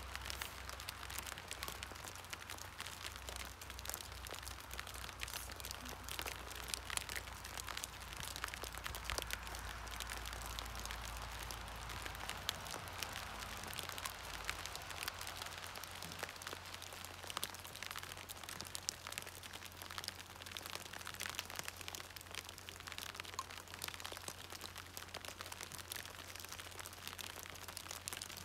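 Rain falling on a plastic sheet and wet card, a dense scatter of small drop ticks over a soft hiss. A low rumble underneath fades out about halfway through.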